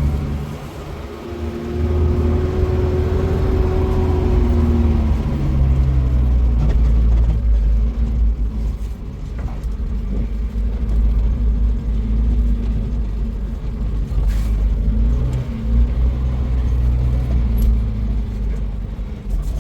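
A motor vehicle running, with a heavy low rumble and an engine note that rises and falls several times.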